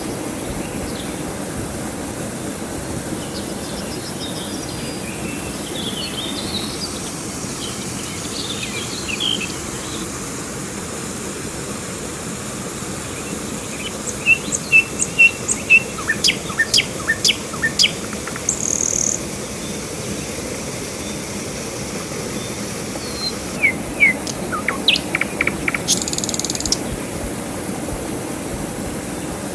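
Birds chirping in short, quick series of high calls, in two bursts through the middle and near the end, over a steady rushing of river water.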